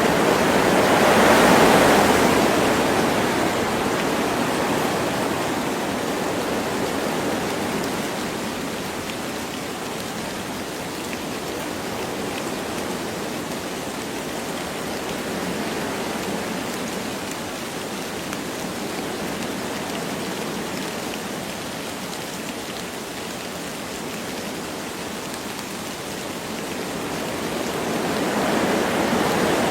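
Wind blowing through forest trees with light rain falling, a steady rushing hiss. A gust swells about a second or two in, dies down through the middle, and builds again near the end.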